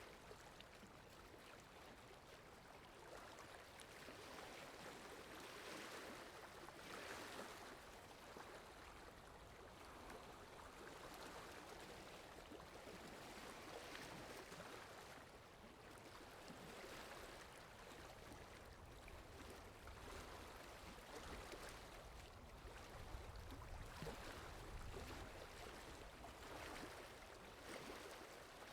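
Running water of a stream or falls, a faint steady rushing hiss that swells and eases every few seconds, with a low rumble added in the second half.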